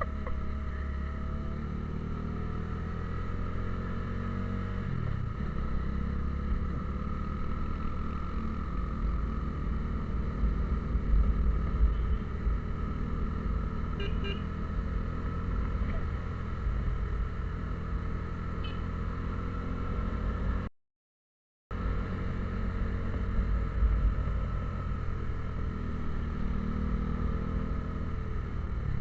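A vehicle running along the road, its engine drone and low road rumble steady throughout, with a slight change in engine pitch about five seconds in. The sound cuts out completely for about a second near three quarters of the way through.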